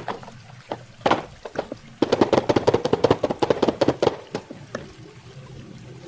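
Toy packaging being handled and opened: a few sharp taps, then a dense run of crackling clicks from about two seconds in that lasts over two seconds. A faint steady hum comes in near the end.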